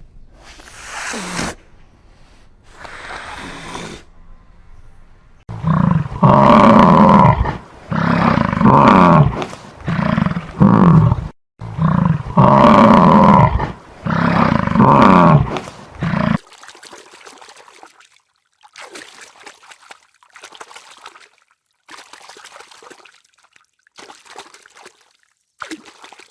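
A large animal calling loudly again and again, long pitched calls in two bouts separated by a short break, followed by faint short rustling noises.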